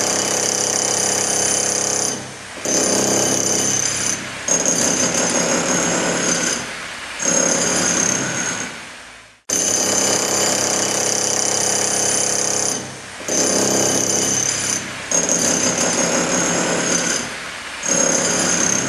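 Rattling, jackhammer-like power-tool noise in stretches of one to three seconds with short breaks; the same run of about ten seconds plays twice, as a looped sound effect does.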